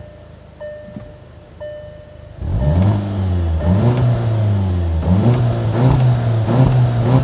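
A warning chime dings about once a second. About two and a half seconds in, the 2.0-litre turbocharged four-cylinder (EA888) engine of a Volkswagen GTI starts and is revved several times, its pitch rising with each blip.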